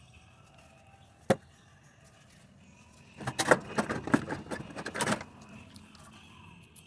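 Small metal parts being handled: a single sharp click about a second in, then about two seconds of clinking and rattling.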